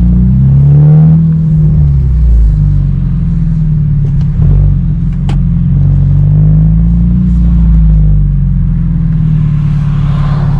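Hyundai Genesis Coupe 2.0T turbocharged four-cylinder running through a Tomei titanium single exhaust: a low exhaust drone whose pitch rises and falls a couple of times as the engine speeds up and eases off.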